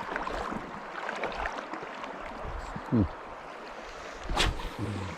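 Steady rush of river water running over rock riffles, with a short loud falling whoosh about three seconds in and a sharp click a little over a second later.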